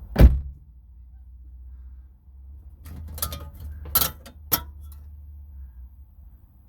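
A single sharp knock, then a few light clicks and clinks of hard parts or tools being handled, some with a brief metallic ring, about three to four and a half seconds in, over a low steady hum.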